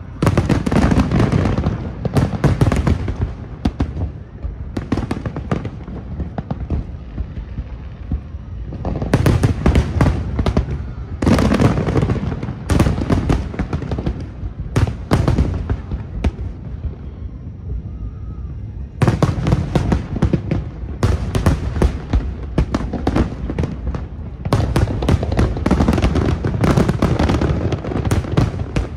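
A large aerial fireworks display, shells bursting in rapid volleys of sharp bangs. There are four dense barrages, one at once, one about nine seconds in and two more in the last ten seconds, with quieter stretches of scattered bursts between them.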